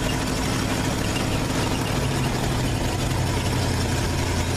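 Vintage dump truck's engine running steadily at low speed in second gear, a constant low hum with no change in pitch.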